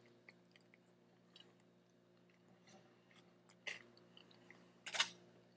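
Close-up mouth sounds of someone biting and chewing a sweetbread taco: faint soft chewing with sharper smacks about three and a half seconds in and again near the end.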